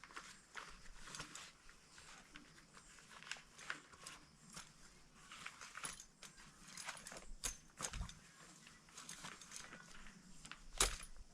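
Irregular light taps, clicks and rustles at a low level, with a louder knock about eight seconds in and another near the end.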